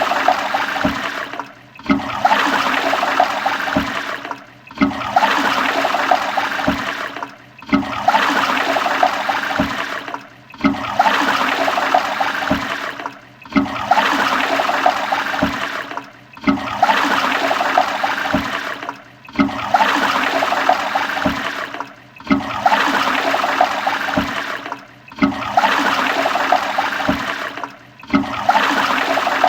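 Toilet flushing: a rush of water that drops away and starts again about every three seconds, the same short flush repeating over and over.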